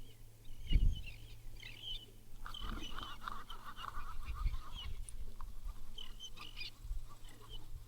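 Animal calls, bird-like: repeated short high chirps, with a choppy nasal honking run for about a second and a half partway through. A low thump or two under them, near the start.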